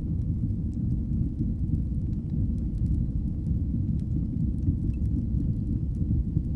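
Wood fire burning in a fireplace: a steady low rumble with faint, scattered crackles.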